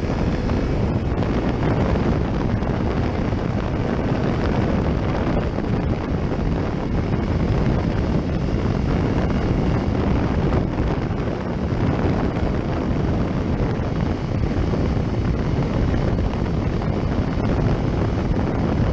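Steady wind rush buffeting the microphone of a camera on a moving motorcycle, with the bike's running and road noise underneath.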